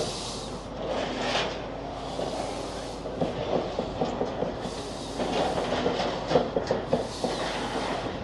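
Demolition machinery breaking up a concrete building: irregular clattering and crunching of masonry, with many small knocks over a steady background rumble.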